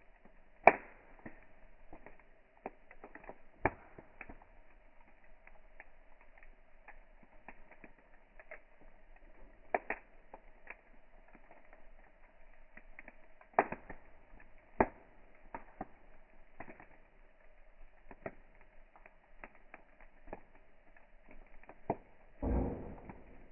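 Wood campfire crackling, in a slowed-down recording: irregular sharp pops and snaps, the loudest about a second in and twice around the middle, with a louder low rumbling burst near the end.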